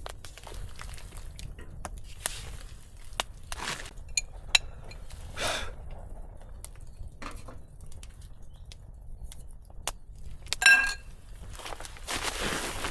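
Camping gear being handled: scattered light clicks, knocks and swishing rustles, with one brief ringing metal clink near the end.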